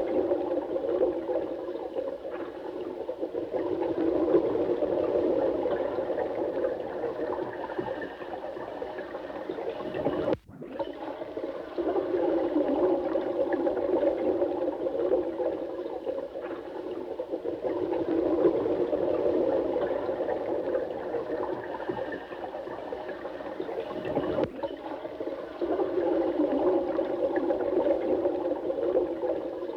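Running water, a continuous low gurgling flow that swells and eases every several seconds. It cuts out for an instant about ten seconds in.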